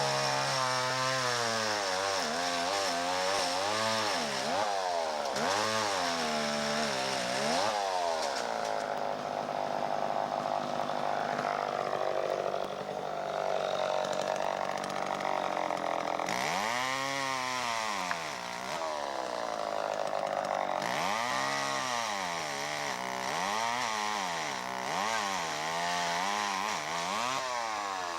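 Chainsaw revving up and down again and again while cutting through the trunk of a tree that has tipped and hung up partway down. About eight seconds in it holds a steady high speed for several seconds, then goes back to rising and falling revs.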